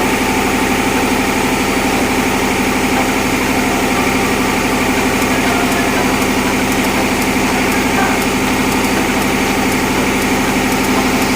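Diesel machinery in a tugboat's engine room running steadily: a loud, unchanging drone with a constant hum.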